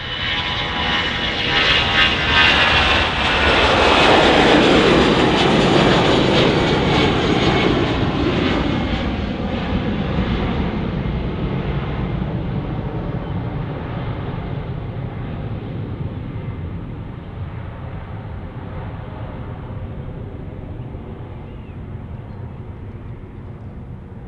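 Finnair Airbus A320 jet departing on takeoff power, passing close by. Its engine whine and tones slide down in pitch as it goes past in the first several seconds, then the jet noise slowly fades as it moves away.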